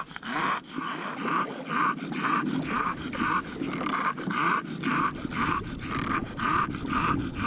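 Bulldog panting hard, quick raspy breaths about three a second with a rough, snorting rattle underneath.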